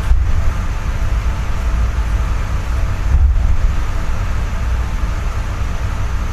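Seibu 4000 series train standing at a station with its doors open, heard from inside the car: a steady hum and low rumble from its onboard equipment and air conditioning, with a slight bump about three seconds in.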